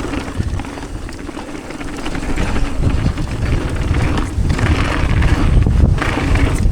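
Wind buffeting a helmet or chest-mounted action camera's microphone while a downhill mountain bike rolls down a dirt trail, the tyres and bike rattling over bumps; it grows louder in the second half as the bike picks up speed.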